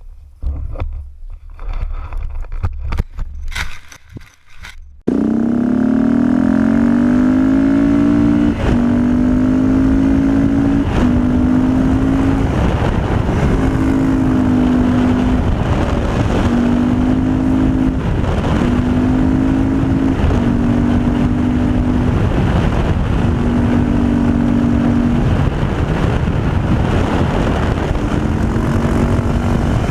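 Motorcycle engine running hard under way, with a steady rush of wind and road noise. The engine's pitch rises at first, then breaks and resumes every couple of seconds as the bike changes speed and gears. It starts abruptly about five seconds in, after a few scattered short sounds.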